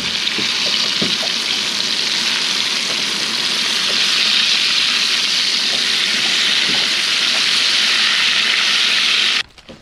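Beer-soaked catfish pieces deep-frying in hot oil: a steady sizzle with small scattered pops. It cuts off suddenly near the end.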